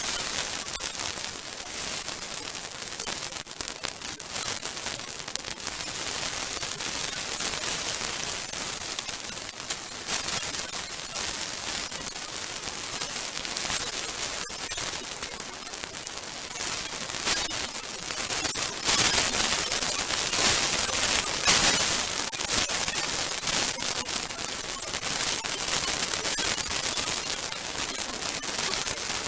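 Large bonfire burning, with a dense crackling and popping over a steady hiss; the crackling grows louder about two-thirds of the way through.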